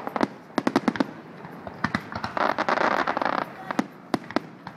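Fireworks display: a rapid, irregular series of sharp bangs and cracks, with a dense burst of crackle a little over two seconds in that lasts about a second.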